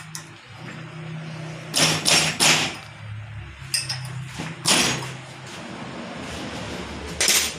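About six sharp metallic knocks and taps of hand tools working on a Bosch VE rotary diesel injection pump while its governor shaft is tightened, spread irregularly over a steady low hum.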